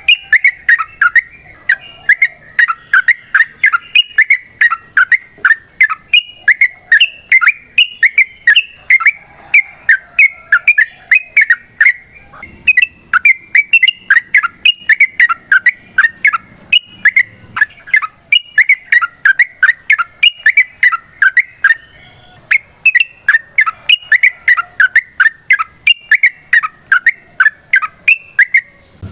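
Yellow-vented bulbul (trucukan) singing a long, unbroken run of short, rapid chattering notes, repeated several times a second.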